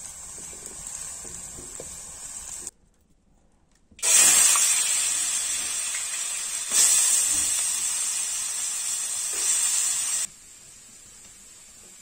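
Diced potatoes dropped by hand into hot oil in a steel wok over a wood fire, sizzling loudly, with a fresh surge of sizzle as each handful goes in, about four, seven and nine and a half seconds in. Before that, a fainter frying sound, broken by a second of near silence.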